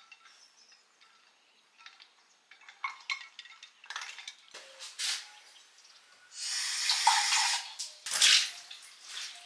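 Kitchen handling sounds: light clinks and knocks of dishes and utensils, then a hissing rush of noise lasting about a second and a half, with another short burst just after it.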